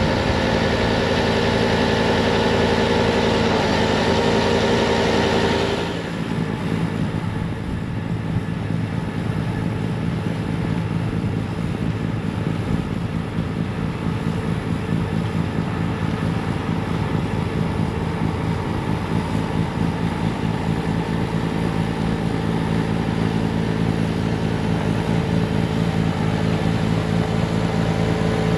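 Diesel engine of a Bobcat T66 compact track loader running steadily with its snowblower attachment, a steady engine drone under a loud rushing hiss. About six seconds in the hiss cuts off and the sound drops a little, the engine running on steadily.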